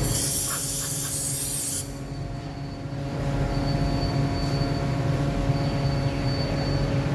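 Factory machinery running with a steady hum and several held tones. A loud hiss sounds for about the first two seconds, then cuts off.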